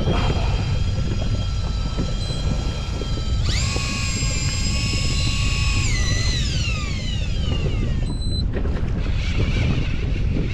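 A small motor whining steadily, then jumping to a higher, louder pitch about three seconds in and winding down in pitch over the following two seconds, over wind noise on the microphone. A short high steady beep sounds near the end.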